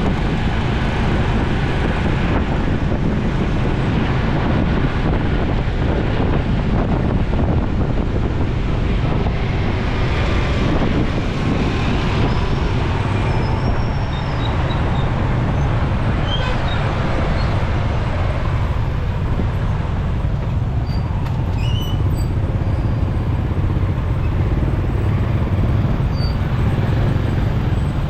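Steady motorcycle and road-traffic noise heard while riding, dense and strongest in the low end, with a few brief high chirps in the second half.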